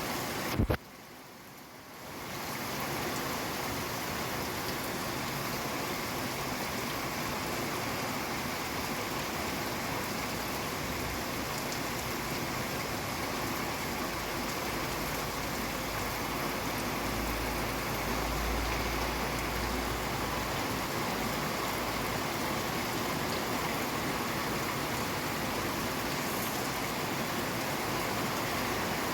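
Steady rain falling, an even hiss. Under a second in there is a sharp click, then the rain drops out briefly and fades back in over about two seconds. A faint low rumble comes in around the middle.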